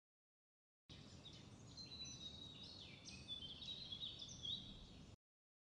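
Wild birds singing, several short chirping and gliding phrases in quick succession over a low, steady rumble of outdoor background noise; it starts about a second in and cuts off abruptly before the end.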